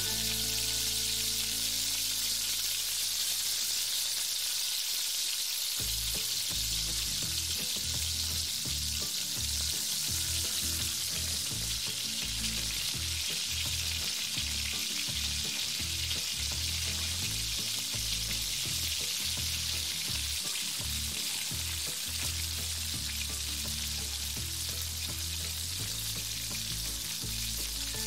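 Garlic, ginger and onion sautéing in hot oil in a metal wok: a steady sizzling hiss, stirred with a metal spoon.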